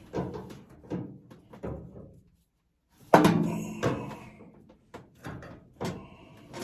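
Knocks and clunks of a dryer's sheet-metal top panel being lifted and propped open, with one loud thunk about three seconds in that rings on briefly.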